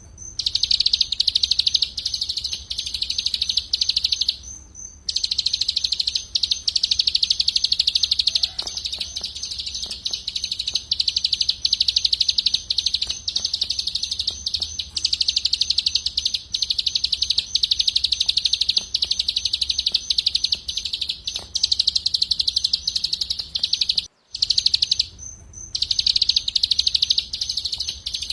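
A cage songbird singing a long, very fast, high-pitched trill, nearly unbroken, with a short pause about four seconds in and another near the end. A faint low hum lies underneath.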